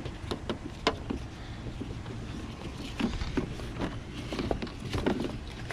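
Scattered light clicks and taps as the plastic cowl panel at the base of a Toyota Camry windshield is tapped down along its length, its retaining clips snapping into place. One louder click comes near the end, over a steady low hum.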